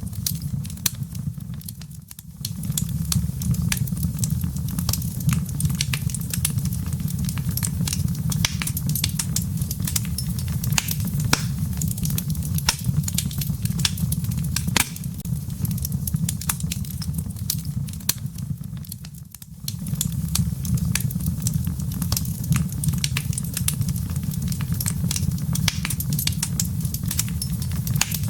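Logs burning in a fireplace, crackling with frequent sharp pops over a steady low rumble. The rumble briefly drops away twice, about two seconds in and again about twenty seconds in.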